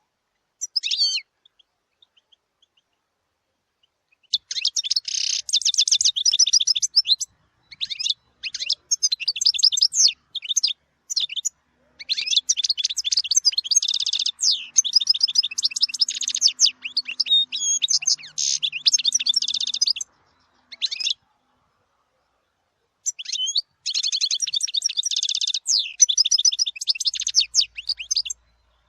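European goldfinch singing: rapid high twittering song phrases in several bursts of a few seconds each, the longest in the middle, with short pauses between them.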